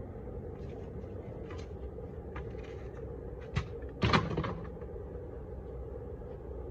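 Steady hum of a honeybee colony, with a few scrapes and knocks as the hive is worked; the loudest is a clattering knock about four seconds in.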